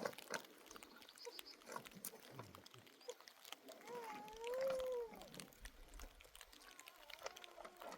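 A single drawn-out animal call, rising then falling in pitch, about four seconds in, over scattered small clicks and knocks.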